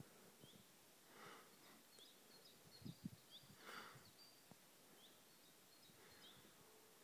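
Near silence outdoors, with scattered faint, high bird chirps throughout. There is a sharp click right at the start, a few soft rustles and a couple of low knocks about three seconds in.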